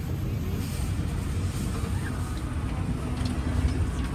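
Steady low rumble and hiss inside an Airbus A350-900 cabin on the ground during boarding, with the air-conditioning ventilation running.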